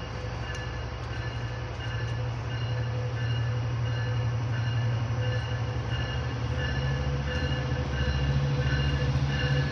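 Amtrak passenger train approaching, its diesel engine drone growing steadily louder as it nears, with a high ringing tone that pulses on and off above it.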